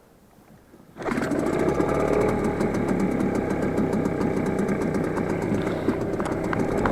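Boat outboard motor catches about a second in and settles into a steady run with a fast, even firing beat.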